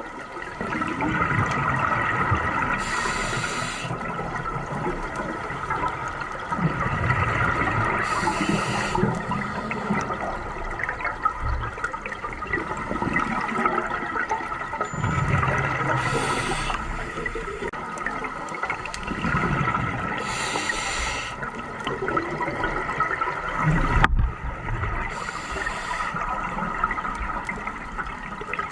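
Scuba diver breathing through a regulator underwater: a short hiss of inhalation about every four to five seconds, alternating with a longer gurgling rush of exhaled bubbles.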